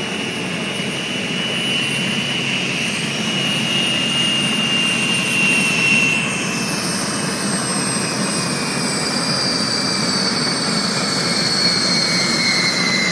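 Gas turbine engines of a 50 ft Statement racing catamaran running: a steady rushing noise with a high turbine whine that slowly falls in pitch.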